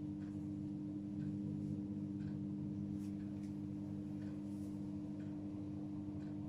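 AEG Öko-Lavamat washing machine running mid-cycle: a steady electrical hum with faint, regular ticking about twice a second and an odd sharper click.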